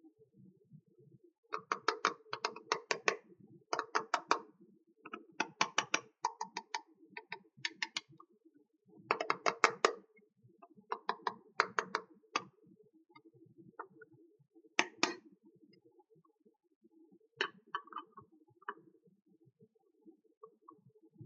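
Quick runs of small sharp clicks and taps, in bursts of about a second, from small plastic toy pieces and packaging being handled. The clicks thin out to a few single ones in the second half.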